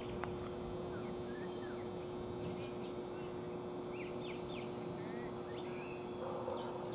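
Birds chirping in short, scattered calls over steady outdoor background noise, with a constant low hum underneath.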